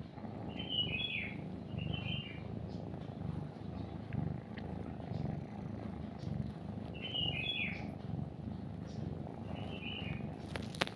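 A cat purring steadily and close, with a small bird chirping in four short bursts of two or three notes over it. A few sharp clicks come near the end.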